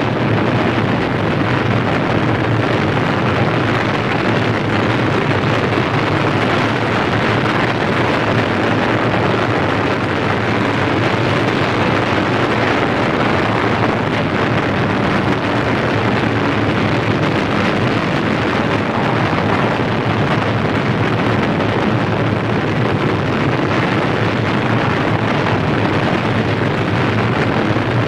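Sound-effect recording of a large fire burning: a loud, steady, even rushing noise with no separate bangs.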